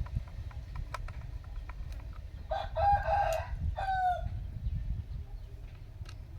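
Rooster crowing once, starting about two and a half seconds in, the call ending in a falling note, over a steady low rumble with scattered clicks.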